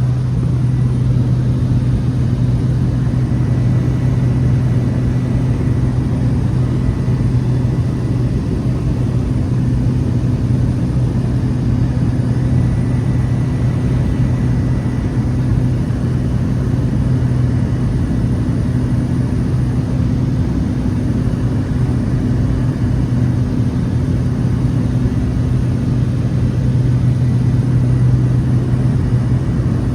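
Steady drone of a Cessna 208 Caravan's Pratt & Whitney PT6A turboprop engine and propeller under power, with a strong low hum and no change in pitch or level.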